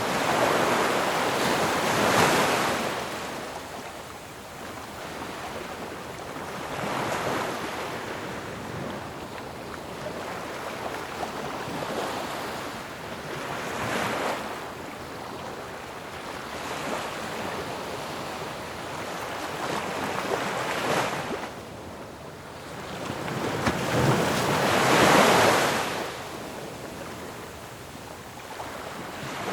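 Sea waves breaking on a shore and washing back, in a rolling rush of surf that swells and fades several times. The biggest wave breaks a few seconds before the end.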